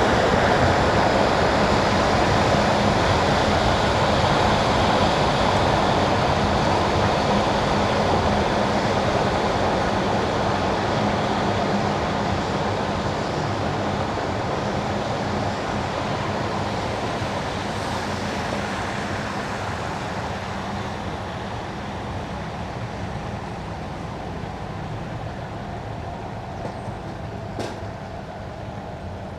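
Car tyres hissing on wet winter asphalt, with the low steady road rumble of the car, fading gradually over the stretch. A brief faint click near the end.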